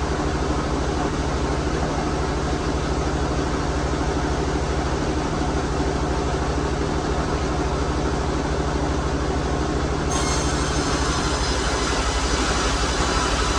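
Sawmill machinery running steadily and loudly, a continuous mechanical din with a low steady hum beneath it.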